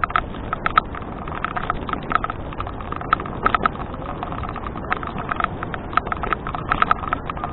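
Bicycle rattling and clicking in irregular clusters of sharp knocks during riding, over a steady rush of wind and tyre noise.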